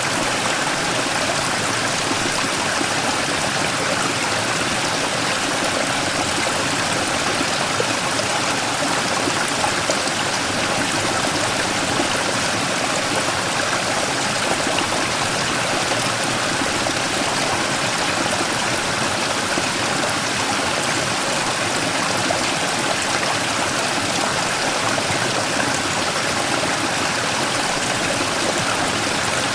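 Mountain stream rushing and splashing over a large rock in a small waterfall, a steady, even water noise.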